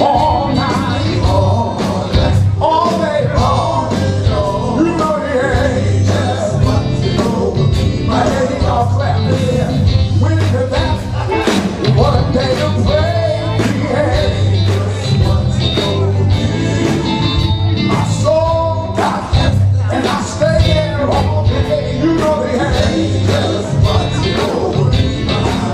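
Live gospel band with a steady beat of drums and bass under a male singer's bending, drawn-out lines.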